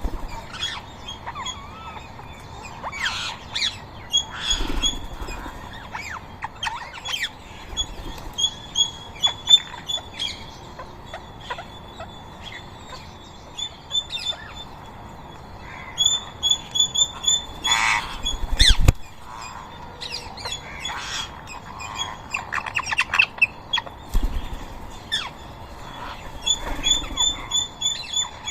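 Rose-ringed parrots squawking and chattering: many overlapping harsh calls, with runs of quick, high, repeated notes.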